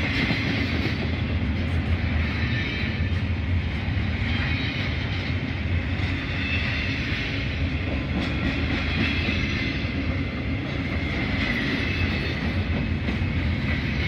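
Double-stack container cars of a Norfolk Southern freight train rolling steadily past at close range, steel wheels running on the rails, with a few sharp clanks.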